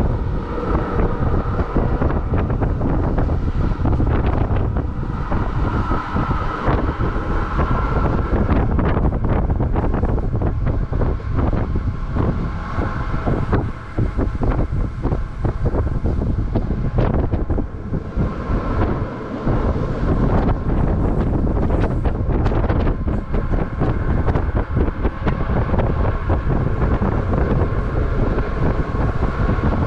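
Electric train running along the track, heard from on board: a steady rumble with constant rattling and clicking of wheels over the rails, a faint steady whine, and wind buffeting the microphone.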